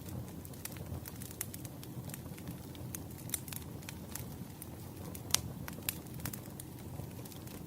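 Wood fire crackling, with irregular sharp pops and snaps, the loudest about five seconds in, over a steady low rumble.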